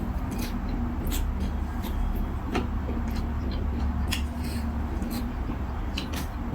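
A person eating noodle soup, with frequent short, irregular mouth and utensil clicks from chewing. Under them runs a steady low hum.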